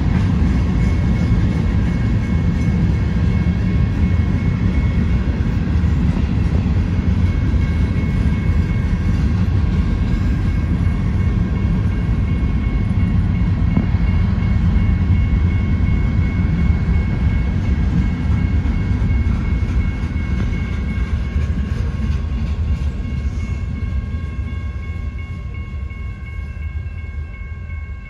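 Train passing through a grade crossing: a steady, loud low rumble of the rolling cars that fades over the last several seconds. A steady high ringing tone runs above it and comes through more clearly as the rumble dies away.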